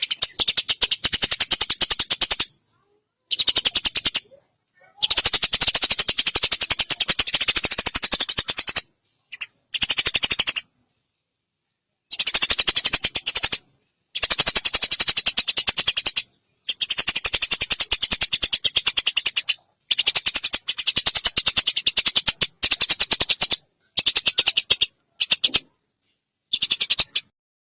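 Eurasian tree sparrows' fighting chatter: very rapid, harsh chirps run together into bursts lasting from under a second to several seconds, broken by abrupt silent gaps.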